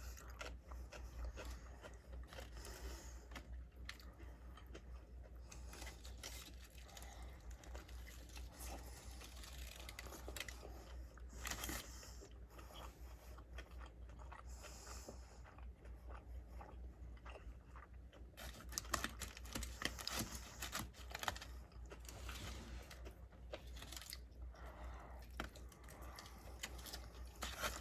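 Close-miked chewing and biting of a Five Guys cheeseburger, with wet mouth sounds and small crunches, and a busier run of sharp clicks and crackles about two-thirds of the way through.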